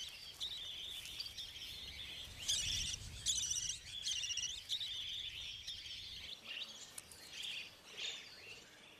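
Budgerigars chirping and chattering, a run of quick high calls and warbles that keeps coming throughout.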